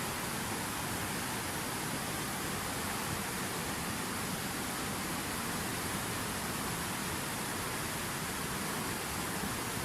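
Water pouring steadily over a fountain waterfall: an even, unbroken rushing splash with no change.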